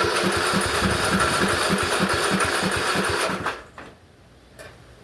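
Lawn tractor's starter motor cranking the cold engine without choke, with a steady rhythm of about three compression strokes a second; it stops after about three and a half seconds without the engine catching.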